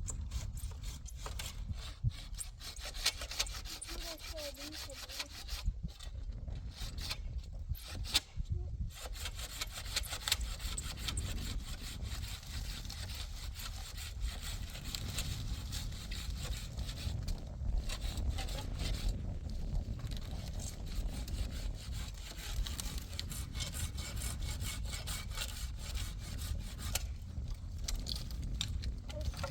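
A saw cutting through wood in a steady run of rasping strokes, stopping briefly a few times.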